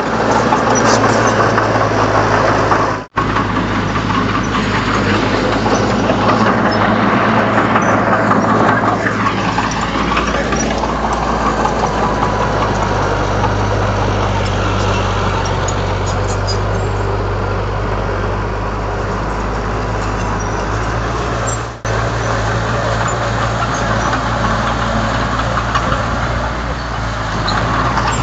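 Komatsu D31 bulldozer's diesel engine running steadily under work, its pitch dipping and rising again about nine seconds in. The sound drops out abruptly for an instant twice, about three seconds in and near twenty-two seconds.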